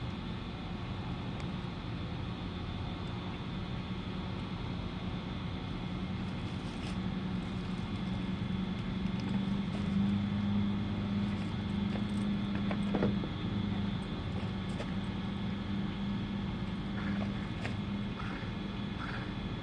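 A motor or engine running steadily with a low drone, swelling slightly about halfway through, with a few light clicks.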